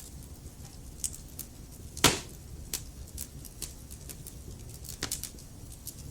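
Logs burning in a fireplace, crackling with irregular small snaps over a low rumble of the flames. One sharp, loud pop comes about two seconds in, and a few more pops cluster near five seconds.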